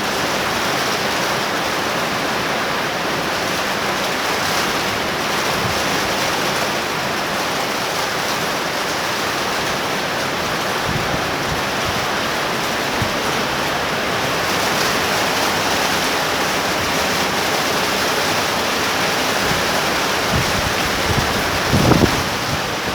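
Torrential tropical rain pouring down in a dense, steady hiss, with a couple of short low thumps near the end.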